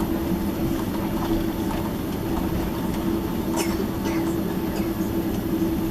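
Steady engine and cabin noise inside a Boeing 767-300ER on the ground after landing, with a low steady hum and one sharp click about three and a half seconds in.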